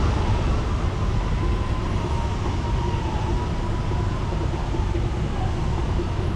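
Steady low rumble of a moving vehicle with a faint, slightly wavering whine over it.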